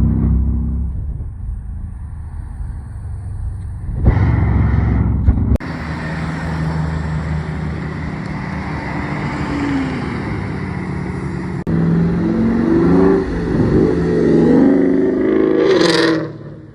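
Car engines accelerating and revving as cars pull away, with a loud surge about four seconds in and a sharp rise in engine sound again near the end.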